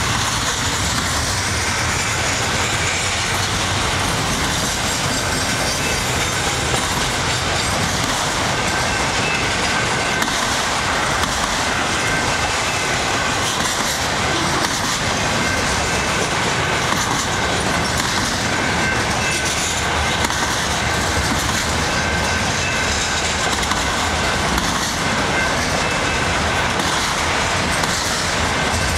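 Cars of a long Canadian Pacific intermodal and autorack freight train rolling past at speed: a steady rush of steel wheels on rail.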